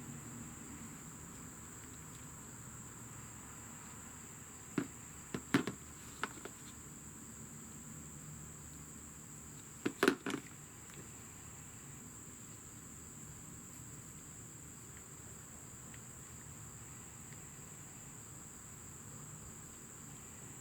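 A cricket trilling steadily at a high pitch, with two short clusters of sharp clicks and knocks, about five and ten seconds in.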